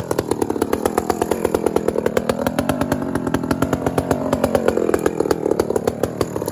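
Two-stroke chainsaw running at high speed under load as it cuts, its pitch dipping and rising slowly with the cut.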